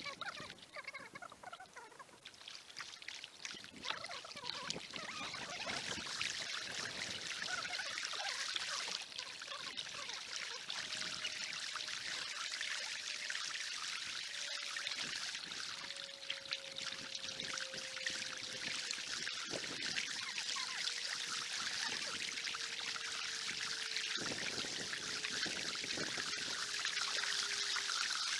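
Kayak paddle strokes: water splashing and trickling as the blades dip and drip. A faint hum slowly falls in pitch through the second half.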